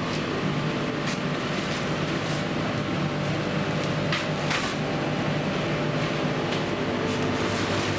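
Machinery running with a steady hum, and a few sharp clicks along the way.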